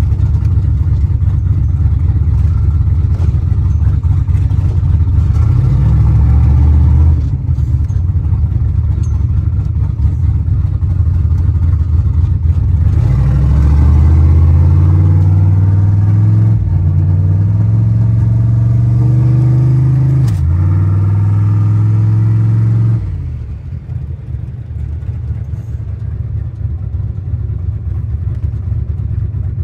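Fox-body Ford Mustang engine heard from inside the cabin as the car accelerates through the gears. The engine note climbs in pitch and drops at each shift, several times over, then falls off and goes quieter near the end as the throttle is lifted.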